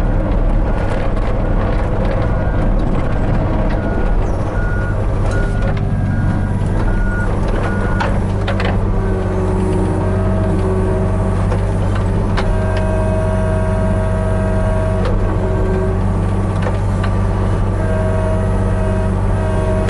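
Hitachi 35U mini excavator's diesel engine running steadily. For about the first eight seconds a short high beep repeats, like a machine's travel alarm. After that, whining tones from the hydraulics rise and fall as it works, with a few sharp knocks.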